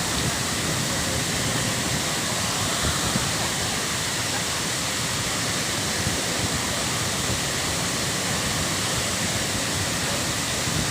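Waterfall pouring: a steady, even rush of falling water without a break.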